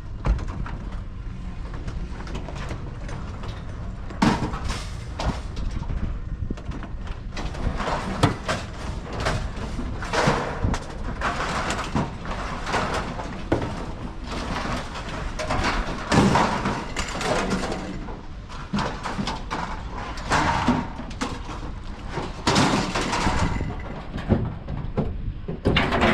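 Steady low rumble under frequent, irregular knocks and bangs, several of them louder than the rest.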